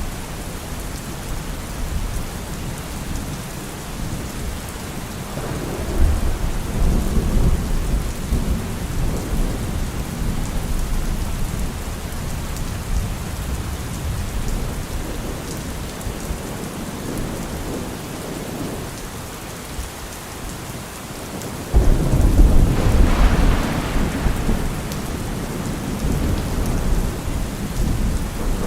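Heavy rain falling steadily on a car roof, with two rolls of thunder: one rumble about six seconds in, and a louder one that breaks suddenly about twenty-two seconds in and fades over several seconds.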